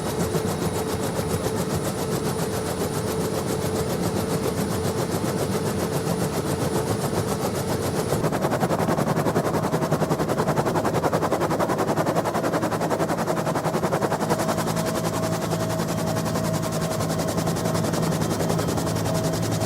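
Bell UH-1N Twin Huey helicopter heard from on board: fast, steady main-rotor blade chop over the whine of its twin turboshaft engines. The whine shifts to a higher pitch about eight seconds in and steadies there.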